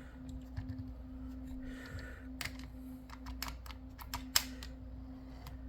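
Light, scattered plastic clicks and taps as a model boxcar is handled and set on a coupler height gauge, over a steady low hum.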